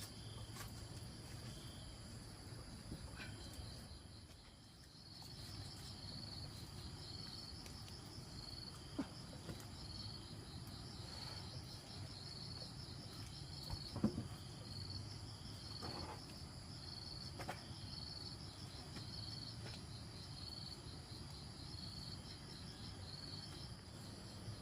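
Insects chirping in a high, rapidly pulsing trill, with a few scattered knocks, the loudest about fourteen seconds in.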